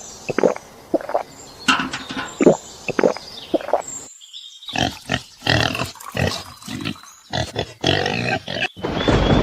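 Animal calls, many short ones in quick succession, broken by abrupt cuts. A steady rushing noise comes in near the end.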